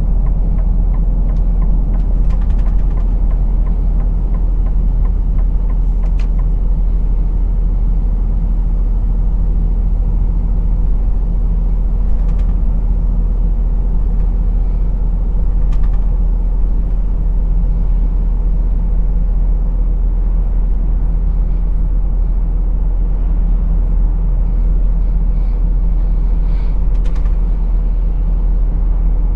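A truck's engine and road noise as a steady low drone inside the cab while driving, with a few faint clicks now and then.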